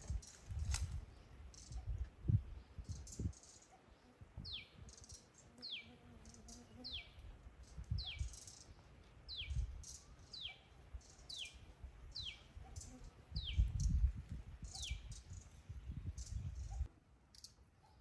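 A bird giving a series of about ten short, high calls, each dropping in pitch, roughly one a second. Low rumbling thumps come at the start and again about three-quarters of the way through, the loudest about 14 s in.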